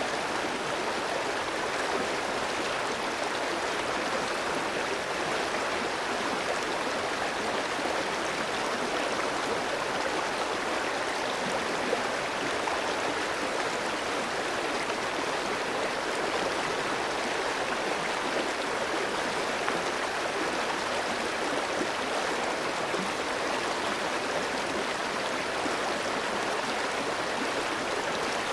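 Clear shallow stream flowing over rocks: a steady, even rush of water with no breaks.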